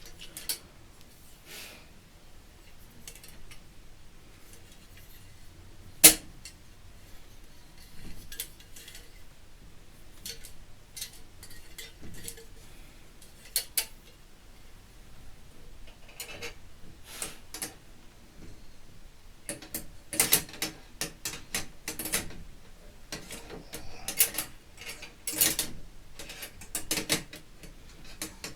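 Stainless-steel fire pit parts clinking and clattering as they are handled and fitted together, with one sharp metallic knock about six seconds in and a quick run of clinks in the last third.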